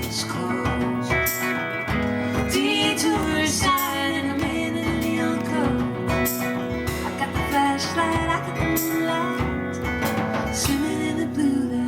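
Live band playing a song: guitar over a steady drum beat, with a wavering melodic line above.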